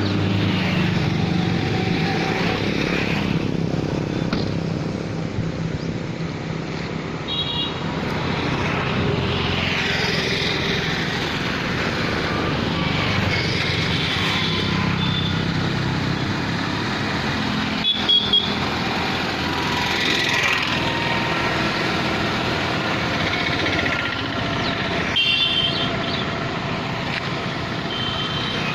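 A car driving, its engine and road noise running steadily, with a few short high-pitched beeps.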